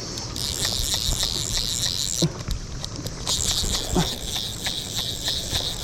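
Chorus of periodical cicadas, a dense, high, steady buzz that breaks off for about a second a little past two seconds in and then resumes. Scattered light knocks sound under it.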